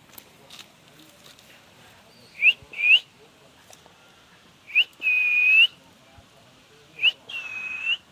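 Three pure whistles, each a quick rising chirp followed by a longer held note that dips slightly and rises again at the end.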